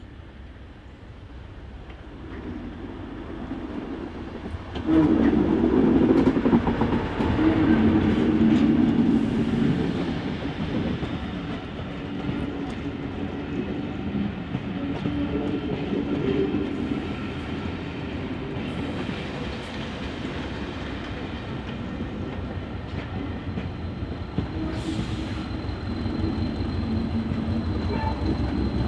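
Hastings Class 201 'Thumper' diesel-electric multiple unit 1001 running into the station: its English Electric diesel engine and wheels on the rails grow louder, jump sharply about five seconds in as the train draws close, then carry on steadily.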